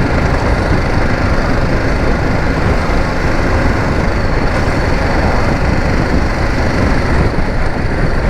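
BMW G 310 GS motorcycle on the move, its single-cylinder engine running steadily under a dense, even rush of riding noise.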